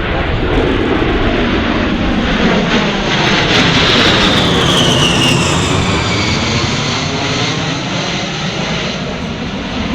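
A-10 Thunderbolt II jets flying past, the rushing noise of their twin General Electric TF34 turbofan engines swelling to a peak about four seconds in. A high whine falls in pitch as they pass.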